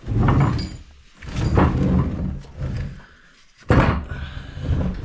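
Handling noise from the Polaris Sportsman 90 engine as it is turned by hand to set the timing mark: three bursts of knocking and rubbing, the last one starting with a sharp knock a little before the end.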